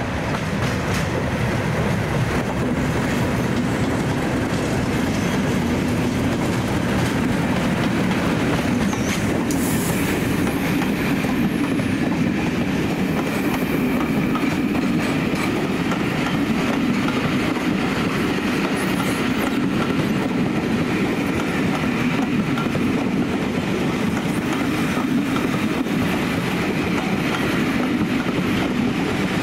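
A pair of Class 37 diesel locomotives, each with an English Electric V12 engine, run by and their train of coaches follows, rolling past with a steady clickety-clack of wheels over the rail joints.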